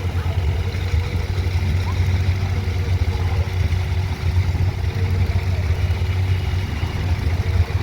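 Diesel engine of a JCB earthmoving machine running steadily, with a low, even engine note.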